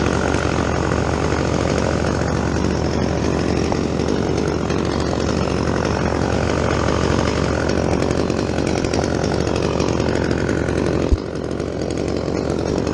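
Chainsaw running at full throttle, cutting into fir wood, fitted with a dull chain according to the uploader. There is a single sharp knock about eleven seconds in, after which the saw runs a little quieter.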